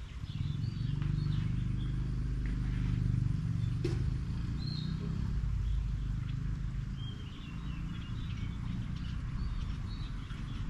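Small birds chirping and calling in short, scattered phrases over a steady low rumble, with a single sharp click about four seconds in.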